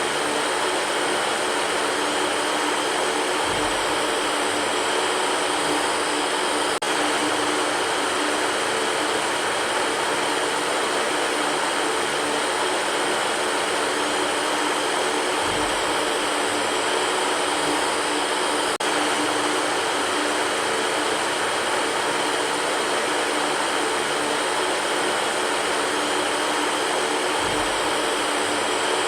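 Electric fan running steadily: an even whooshing hiss with a faint motor hum underneath. A soft low bump recurs about every twelve seconds.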